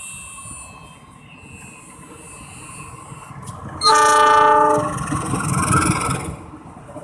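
Train horn sounding one loud blast of just under a second, about four seconds in, followed by a second or so of low rumbling from the train.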